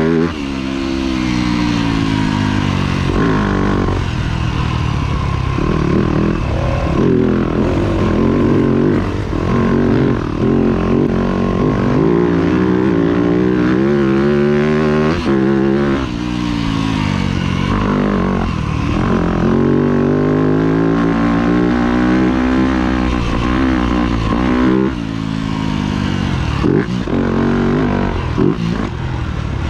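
Yamaha YZ250F's four-stroke single-cylinder engine under hard riding. It revs up again and again through the gears and drops back when the throttle is closed, so its pitch keeps rising and falling.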